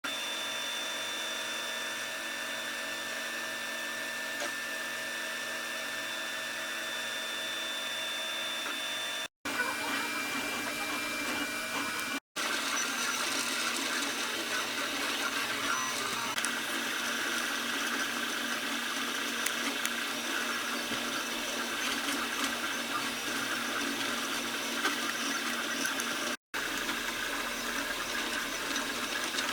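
Desktop FDM 3D printer running a print: its stepper motors whine with steady tones and a busy mechanical buzz as the print head moves, in several clips separated by abrupt cuts.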